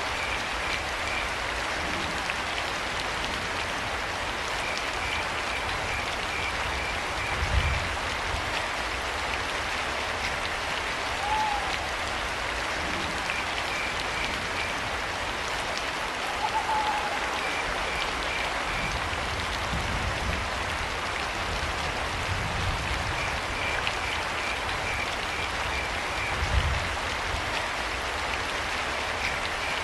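Steady rain with crickets chirping in short rapid trains every few seconds. Two short owl hoots come near the middle, and a few brief low thumps sound through the rain.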